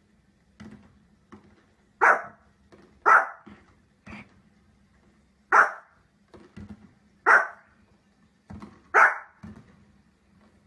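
A dog barking in single loud barks about one to two seconds apart, five in all, with quieter short barks between them.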